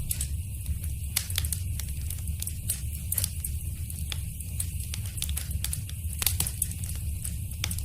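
Fire in a fireplace crackling, with irregular sharp pops over a steady low rumble of the flames; one louder pop comes about six seconds in.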